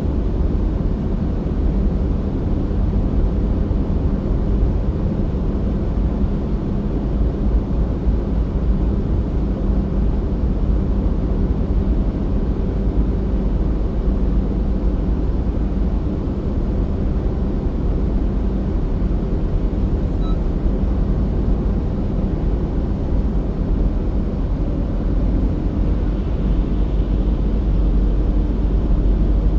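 Car driving steadily along a road, its engine and tyres making a continuous low rumble that holds an even level throughout.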